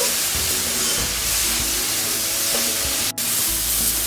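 Grated carrots sizzling in ghee in an aluminium kadai, stirred constantly, with a steady hiss. The sound cuts out for an instant about three seconds in.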